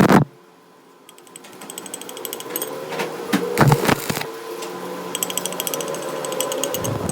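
A workshop machine's mechanism running, just after a louder noise cuts off: a steady hum that grows louder over the first couple of seconds, with rapid regular ticking like a ratchet or gears. A few knocks come in the middle.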